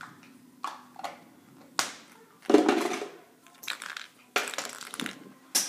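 Play-Doh being pulled and scraped off a homemade surprise egg by hand: a run of short crunching, rustling handling noises, the loudest lasting about half a second, about two and a half seconds in.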